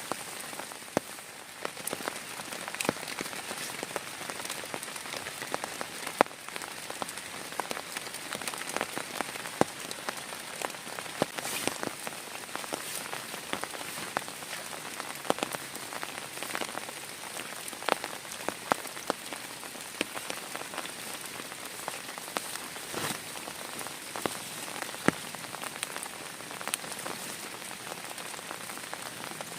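Heavy rain falling steadily, with many irregular sharp ticks of large drops striking a nearby surface.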